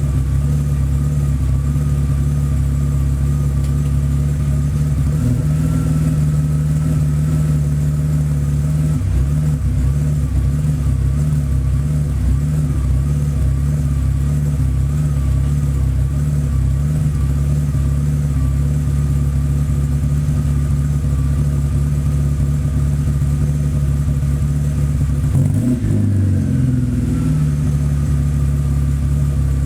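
BMW 850 (E31) V12 idling steadily while warming up. Near the end its note briefly dips and rises, then settles back to the same idle.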